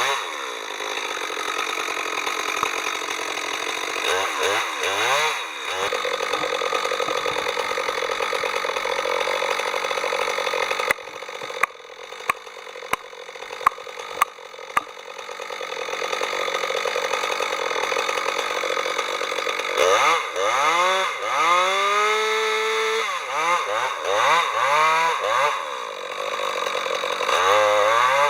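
Chainsaw engine running and being revved, its pitch sweeping up and down several times around a steadier stretch. About eleven seconds in it drops quieter for a few seconds, with several sharp knocks, then revs up again.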